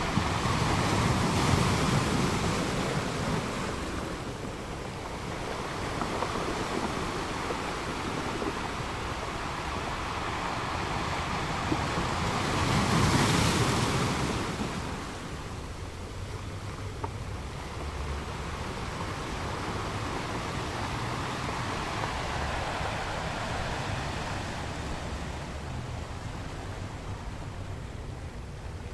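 Ocean waves washing onto a shore: a steady rush of water, swelling louder in the first few seconds and again, most strongly, about thirteen seconds in.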